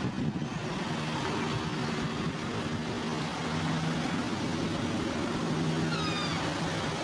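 A motor vehicle's engine running steadily under a wash of driving noise, with a brief falling whistle near six seconds in.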